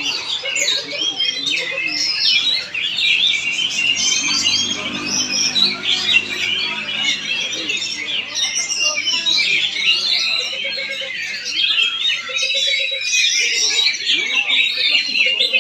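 Oriental magpie-robin (kacer) singing without pause: a rapid, varied stream of high chirps, whistles and harsh notes.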